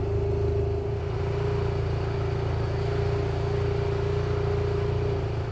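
A motor running steadily: a constant low hum with a steady tone over it that drops out near the end.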